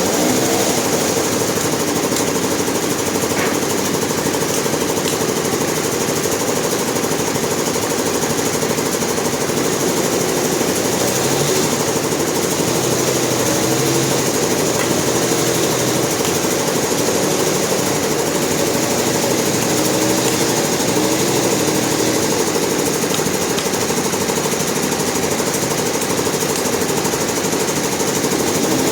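Sawmill machinery running steadily and loudly, an engine-driven din with a fast rattling chatter that holds without a break.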